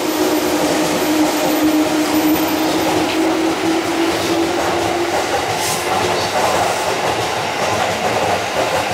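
JR 215-series double-decker Shonan Liner train running past at speed, its wheels rumbling and clattering over the rails, with a steady hum that fades out about halfway through.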